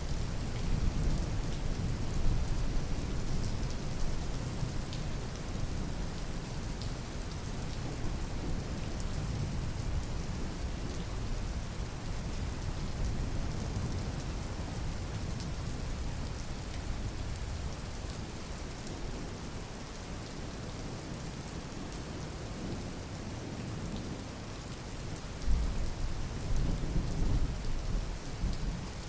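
Steady rain, with low rumbles of thunder in the first few seconds and again near the end.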